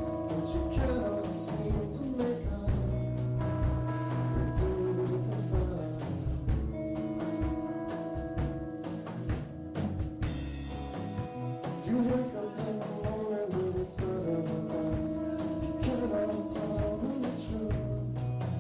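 Live rock band playing a song: steady drum kit hits over sustained held notes from the other instruments.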